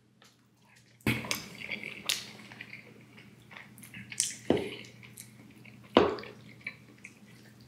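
Close-up mouth sounds of someone eating creamy Alfredo pasta: wet, squishy chewing with sharp moist clicks, starting about a second in, with louder smacks around two, four and a half, and six seconds in.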